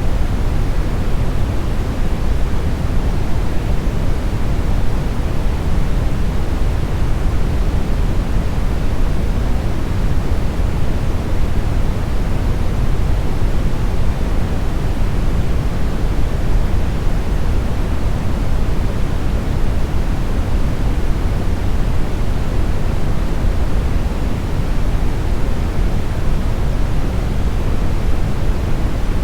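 Synthetic smoothed brown noise: a steady, even hiss that is deep and rumbling, strongest in the bass and soft in the treble, with no change throughout.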